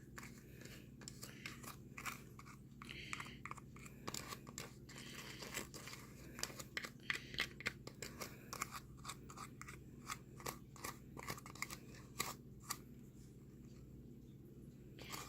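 Crumbly, damp volcano-kit paste being pressed and shaped by hand on a plate: faint, irregular small crunching and scraping clicks that thin out near the end.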